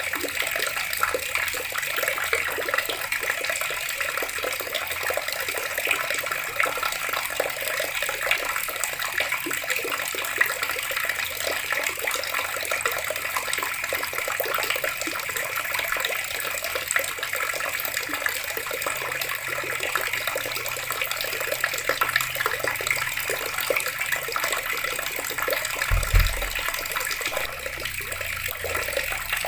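Water running steadily from a tap, splashing without a break. A brief low thud about 26 seconds in.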